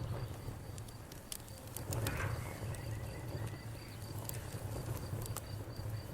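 Campfire crackling, with scattered sharp pops and snaps over a low steady rumble of the fire, while an insect, likely a cricket, chirps in a steady, even pulse in the background.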